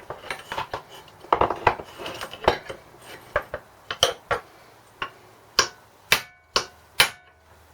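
Irregular sharp metal-on-metal knocks and clinks of hand tools on a small engine part, some ringing briefly, as a stuck part is worked loose.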